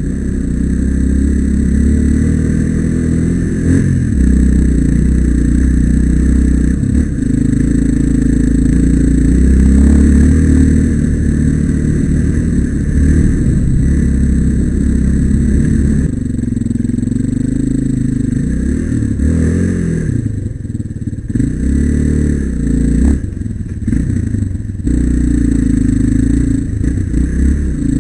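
Single-cylinder trail motorcycle engine running under way, its revs rising and falling as the rider works the throttle, with a run of quick rev changes about two-thirds of the way through.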